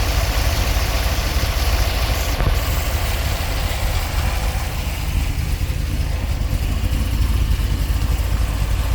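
1964 Corvette Sting Ray's 327 small-block V8 idling steadily after a cold start, with a deep, even exhaust rumble.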